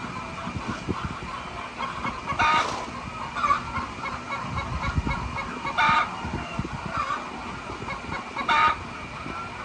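Backyard chickens calling: three loud short calls and a few softer clucks, spread over several seconds.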